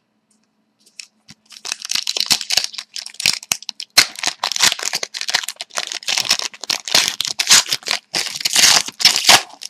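Packs of hockey trading cards being torn open by hand: wrappers crinkling and tearing in a quick run of crackles after about a second of quiet.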